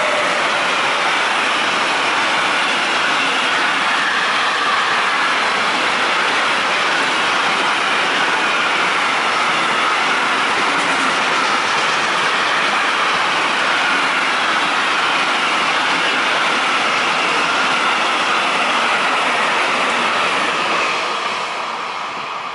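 A freight train of semi-trailers on low wagons passing close by: a loud, steady rumble and rush of steel wheels on rail, with a faint high wheel whine that slowly falls in pitch. The sound fades near the end as the last wagons go by.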